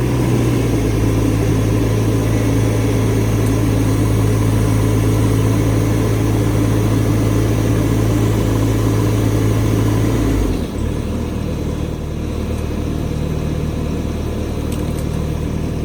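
Bobcat T650 compact track loader's diesel engine running steadily at high speed, then dropping to a lower, slightly quieter run about ten seconds in.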